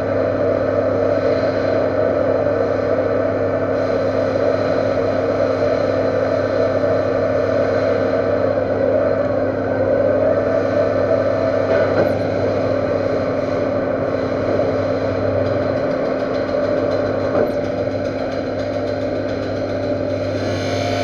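Metal lathe running steadily with a constant machine hum. Part of the low hum drops away about three-quarters of the way through.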